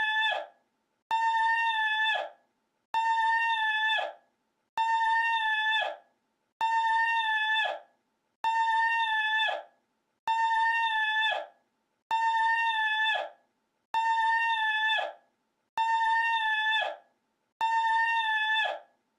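A high, steady, reedy-sounding call held for about a second, then dropping sharply in pitch and cutting off. The identical call repeats as a loop about every 1.8 seconds, with silence between repeats.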